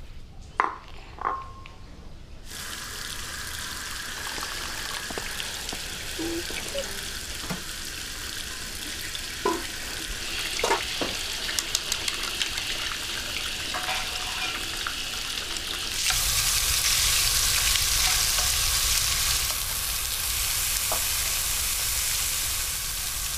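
Food sizzling in a hot pan, with a few short knocks and clinks. The sizzle starts suddenly a couple of seconds in and gets louder about two-thirds of the way through.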